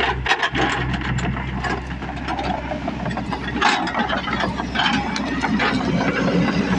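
Diesel engine of a Shantui SE60W wheeled excavator running steadily, with repeated sharp clicks and knocks from the machine over it.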